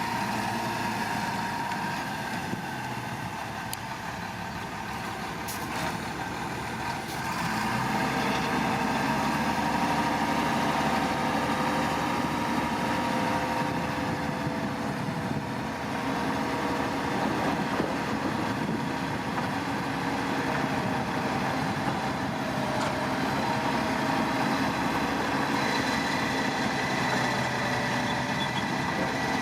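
Heavy earthmoving machinery's engine running steadily, getting louder about eight seconds in.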